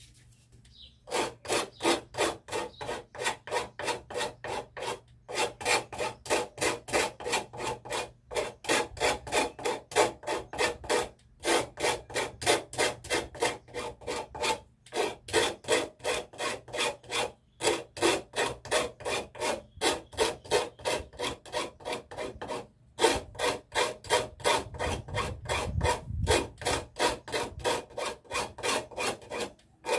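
Rapid back-and-forth abrasive rubbing strokes by hand, about three a second, in runs of a few seconds broken by short pauses.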